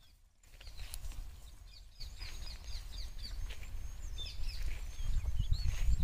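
Small birds chirping: a quick run of short repeated notes, then higher calls, over a low rumble that grows louder in the last second.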